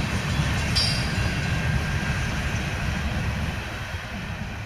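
Freight train rolling past, a steady low rumble of wheels on rail that gradually fades.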